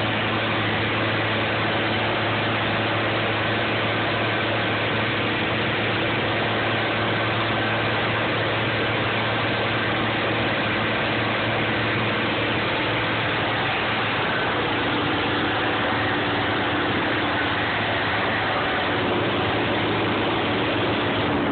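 M35A2 deuce-and-a-half truck's turbocharged multifuel diesel engine running steadily, with a faint high turbo whistle over the engine note. The note shifts slightly about two-thirds of the way through.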